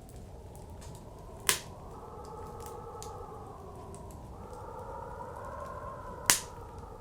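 A wood fire crackling with faint small ticks and two loud sharp pops, one about a second and a half in and one near the end. Behind it, blizzard wind blows steadily with a wavering tone that slowly rises and falls.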